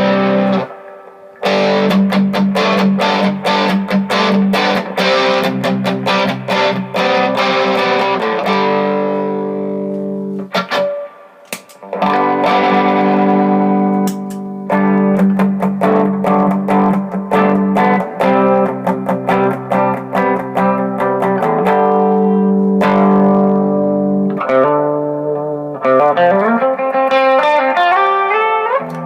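Gibson Les Paul electric guitar played through a Vox AC15 valve amp with effects pedals: fast picked notes over ringing chords in phrases, stopping briefly twice, with a rising run of notes near the end.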